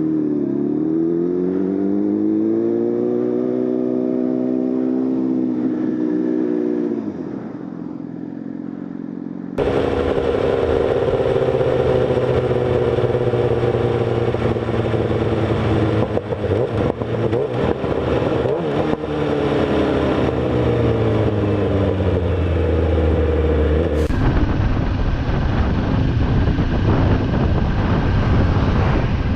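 Motorcycle engine accelerating, its pitch rising for a few seconds and then easing off. After an abrupt change in the sound about a third of the way in, a motorcycle engine runs with slowly falling pitch over a haze of road and wind noise. A second abrupt change comes near the end.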